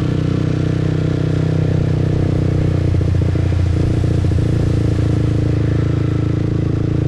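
Motorbike engine running steadily under way, heard from the rider's seat, with a slightly rougher stretch about three seconds in.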